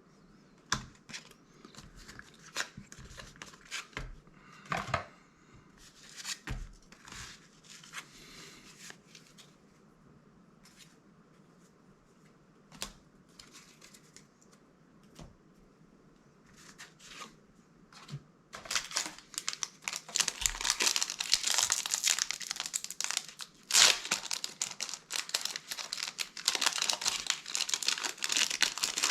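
Magic: The Gathering cards handled with scattered light clicks and rustles. About two-thirds of the way in, the plastic wrapper of a set booster pack starts crinkling and tearing continuously as it is opened.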